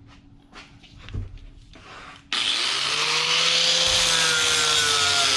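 A few light handling clicks, then about two seconds in a handheld power tool switches on. Its motor spins up in pitch and runs steadily with a harsh rubbing noise as it is worked against the rusted steel of a mower deck to clean the rust spots off.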